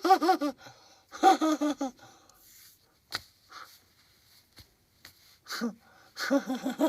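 A man's voice making short bursts of wordless vocal sounds, a few quick syllables near the end, with a single sharp click about three seconds in.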